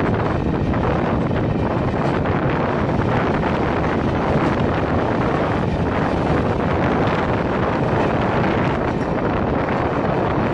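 Steady loud rush of a moving passenger train, its running noise mixed with wind buffeting the microphone.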